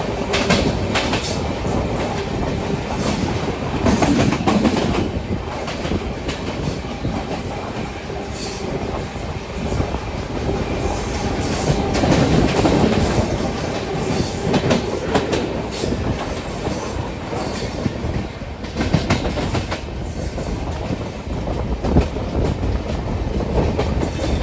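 Moving Indian Railways express train heard from an open coach doorway: wheels clacking over rail joints in a steady run of clicks over the rumble of the coaches. A train of passenger coaches runs past alongside on the next track for much of it.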